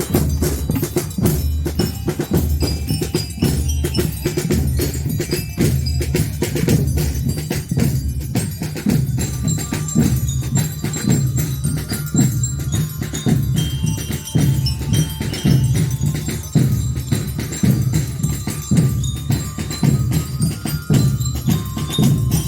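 Marching band playing a medley, led by bell lyres (metal-bar liras) ringing out the melody over a steady beat of drums and percussion.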